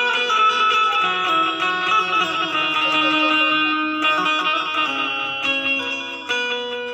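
Indian banjo (bulbul tarang), a keyed string instrument, being played: a plucked melody of ringing notes that change in quick succession.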